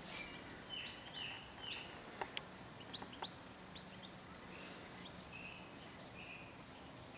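Faint bird chirps: a quick run of short notes in the first two seconds, then scattered single chirps and a few more calls later on.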